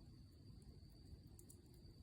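A wood campfire burning very quietly, with a couple of faint crackles about three-quarters of the way in, over a low rumble and a steady thin high-pitched tone.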